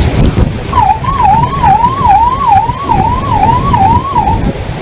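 An emergency-vehicle siren yelping up and down about twice a second for a few seconds, then cutting off near the end, over a loud, steady rush of floodwater.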